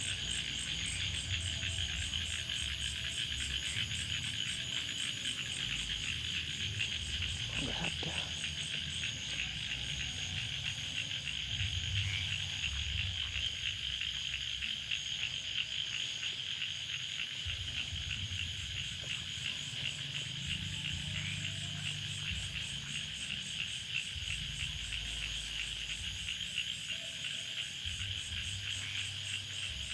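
Steady chorus of frogs and insects trilling continuously, with an uneven low rumble underneath.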